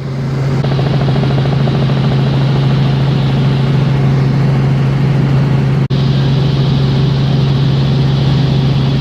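Helicopter engine and rotor sound running at a steady, loud drone, cutting out for an instant just before six seconds in.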